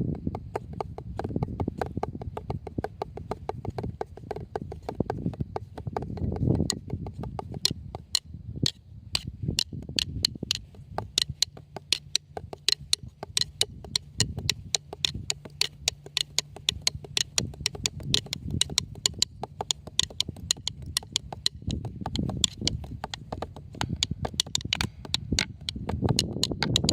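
Drums struck with sticks in a fast, steady run of crisp hits, several a second, over a low rumble that swells and fades.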